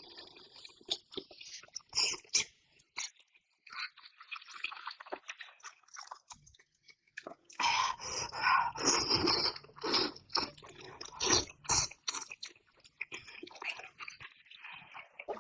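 A person eating close to the microphone: irregular chewing, biting and crunching mouth noises, busiest in the second half.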